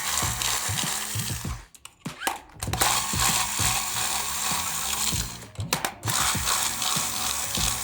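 Small motorised mechanism whirring and rattling in stretches of a few seconds, stopping briefly twice.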